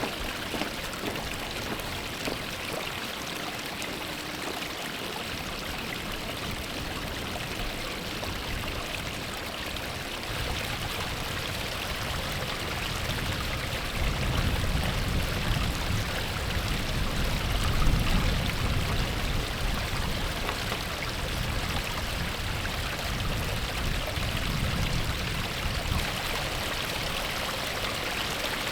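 Steady rushing of a flowing stream or river. A low rumble joins it about ten seconds in and is strongest a little past the middle.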